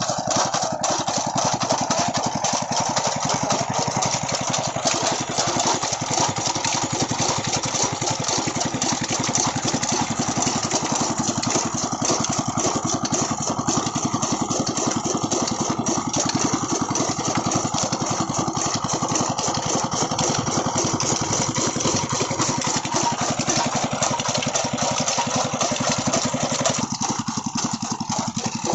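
Old stationary diesel engine running steadily with a fast, even beat as it drives a chaff cutter machine. Its sound thins a little near the end.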